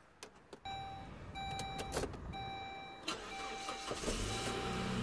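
Saab 9-3 warning chime beeping repeatedly in an even on-off rhythm, with a few clicks. About four seconds in, the engine cranks and catches, running louder and steadily with its serpentine belt routed to bypass the A/C compressor.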